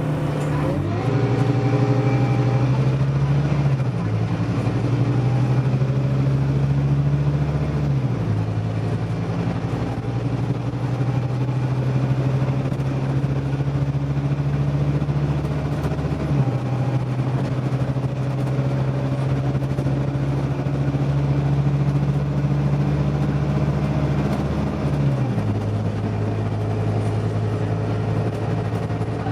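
Scania OmniDekka double-decker bus engine pulling under way. Its note holds steady between gear changes and drops in pitch four times, about 4, 8, 16 and 25 seconds in, as the gearbox changes up.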